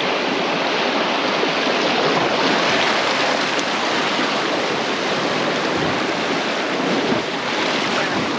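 Rushing river whitewater heard from a raft, a steady loud wash of water.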